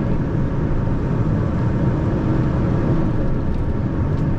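Steady low rumble of a tractor-trailer's diesel engine and road noise, heard from inside the cab while driving.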